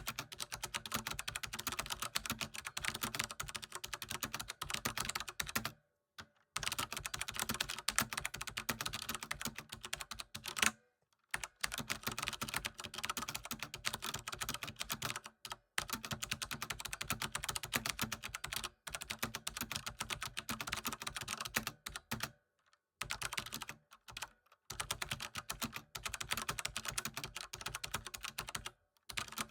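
Rapid typing on a computer keyboard, a dense stream of key clicks in bursts of several seconds broken by brief pauses.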